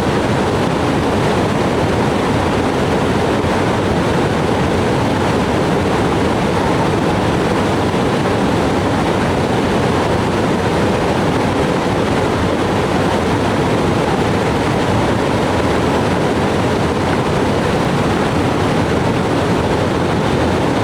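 Steady, loud rushing of water, an even roar that does not change.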